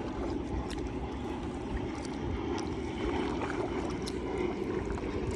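Water moving steadily around a kayak, with a few faint splashes.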